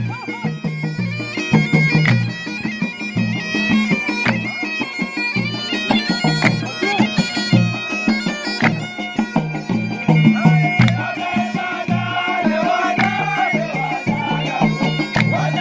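Traditional Gulf sea-music performance: a reedy wind instrument plays a sustained melody over a steady, regular drum beat.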